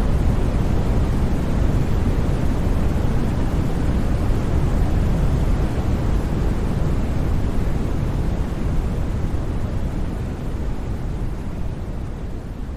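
Steady white noise with its energy weighted toward the low end, like a deep hiss or rumble. It fades out gradually over the last few seconds as the track ends.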